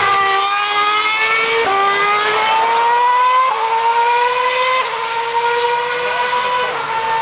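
2013 Formula One car's 2.4-litre V8 at high revs, accelerating through the gears. The engine note climbs slowly and then drops sharply at each upshift, four times, about every one and a half to two seconds.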